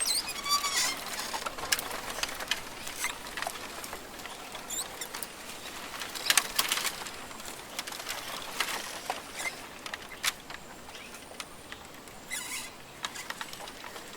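Rainforest ambience: short bird chirps and calls mixed with many sharp clicks and crackles, thickest near the start and again around six seconds in, over a faint steady hiss.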